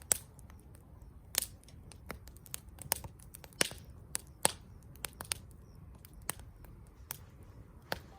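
Wood fire crackling: irregular sharp pops and snaps, sometimes two or three close together, over a low steady rush of the burning fire.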